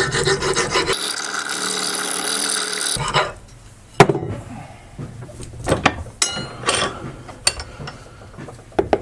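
Metal file rasping on a brass battery earth-lead connector: a few strokes, then a dense continuous rasp for about two seconds, followed by scattered clinks and knocks of the metal parts being handled.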